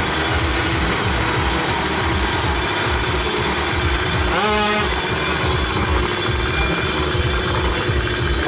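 Drag bike engines from the tuned Kawasaki Ninja two-stroke class running steadily, with a brief upward rev about halfway through.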